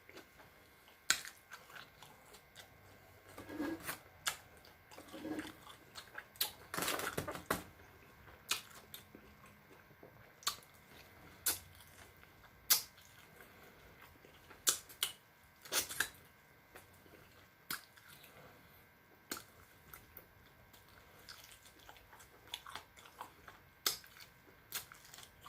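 Close-miked chewing and biting into crispy lemon pepper chicken wings: irregular wet mouth clicks and small crunches, with a denser run of chewing a few seconds in.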